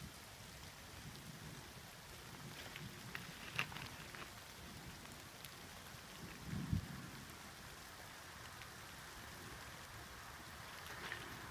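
Light rain falling, a faint steady hiss with scattered sharp drop ticks. A short dull thump just past halfway is the loudest moment.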